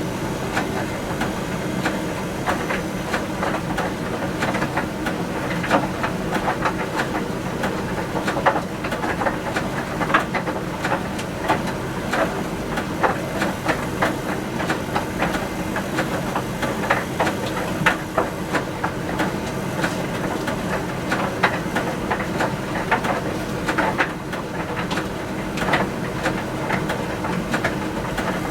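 Miele T1 heat-pump tumble dryer running a drying cycle: a steady motor and fan hum with the load tumbling in the turning drum, giving irregular clicks and knocks throughout.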